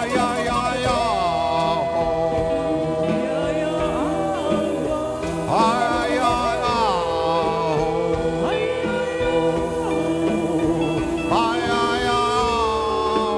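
Live band music in a passage without lyrics: a lead melody that slides up and down between notes over steady held chords.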